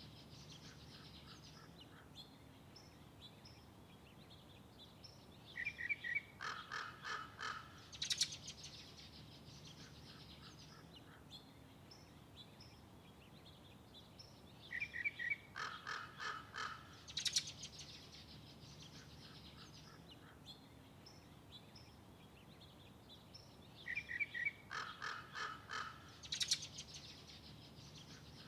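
Birds calling: the same group of calls, a short high note, a run of quick calls and then one sharp loud call, comes three times, about every nine seconds, over faint background noise.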